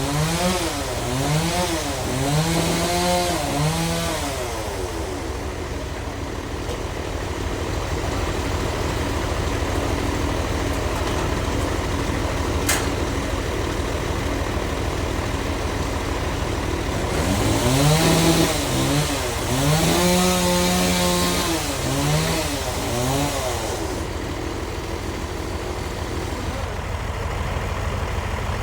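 A sawmill engine running steadily. Twice, for a few seconds, a pitched sound rises and falls over and over on top of it.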